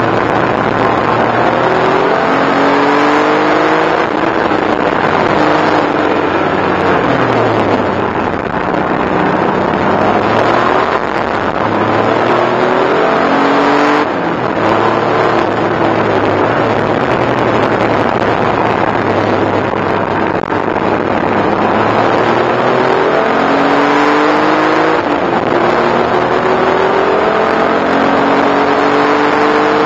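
Porsche 964 Turbo's turbocharged air-cooled flat-six, heard from inside the cabin at racing speed. The revs climb hard several times, with the longest pull near the end, and drop back once under braking, over a steady rush of road and wind noise.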